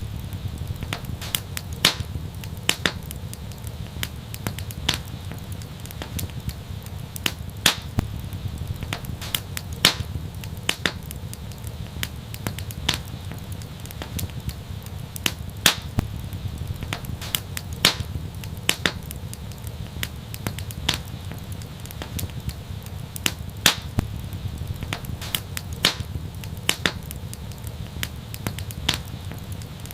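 Wood fire crackling and popping: frequent irregular sharp pops over a steady low rumble of flames.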